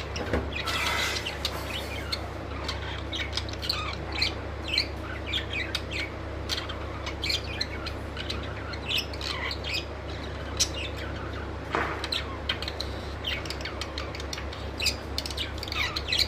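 Budgerigars chirping and chattering: a run of short, quick chirps and twitters, over a steady low hum.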